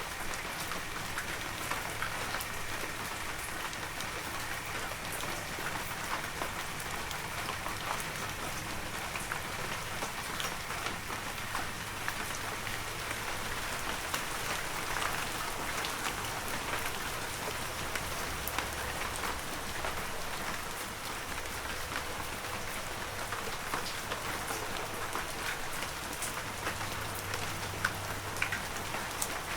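Heavy rain falling steadily, with many individual drops striking close by as sharp little taps over the even hiss.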